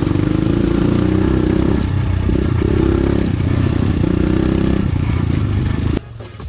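Enduro dirt bike's engine running on a rough trail, its revs rising and falling, with rattling and rumbling from the ride. It cuts off abruptly about six seconds in.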